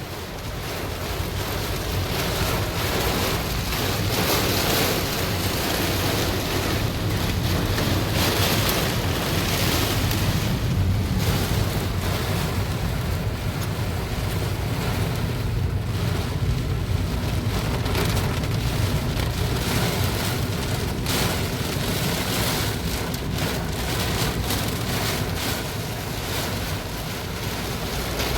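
Heavy rain pouring down steadily in strong wind, with a low rumble beneath the hiss of the rain.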